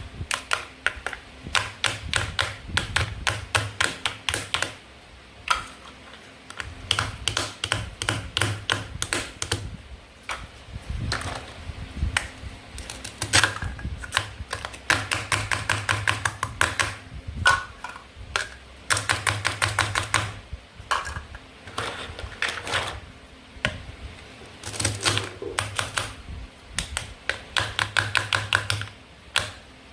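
Plastic toy food pieces and a toy knife clicking and tapping in quick runs of many sharp clicks, with short pauses between runs.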